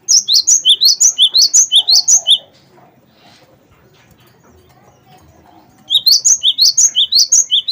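Gelatik batu wingko (cinereous tit) singing two bouts of loud, rapid song, each a string of quickly repeated high phrases that fall in pitch, about two phrases a second. The bouts are separated by a pause of about three and a half seconds.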